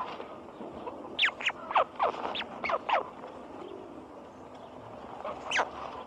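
Birds calling: a quick run of about seven short squeals, each sliding sharply down in pitch, then a single one near the end, over a steady background hiss.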